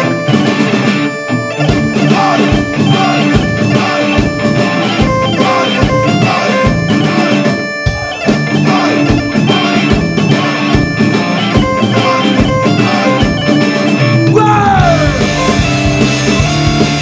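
Live punk rock band with bagpipes playing an instrumental passage: electric guitar and bagpipes over a steady drum beat of about two hits a second. Near the end the bass and the full band come in.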